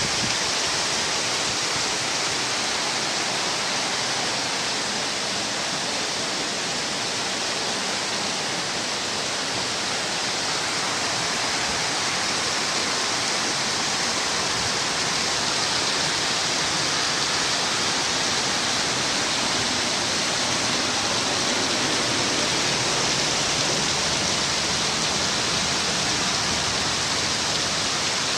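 Heavy monsoon rain pouring down steadily, a dense, even hiss with no let-up.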